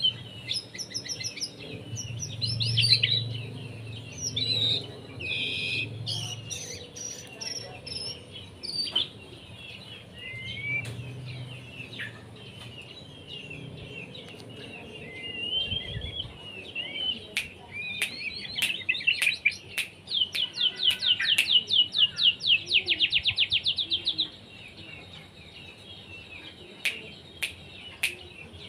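White-rumped shama (murai batu) singing a varied song of whistled and chattering phrases. About two-thirds of the way through it breaks into a loud, fast run of repeated notes that stops abruptly, with a few sharp clicks among the phrases.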